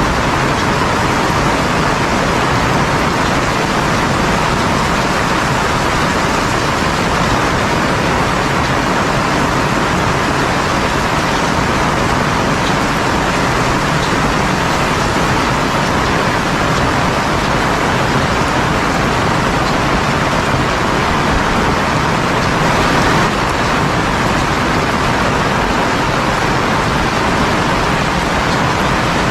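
Heavy rain falling steadily, a loud constant hiss with no letup.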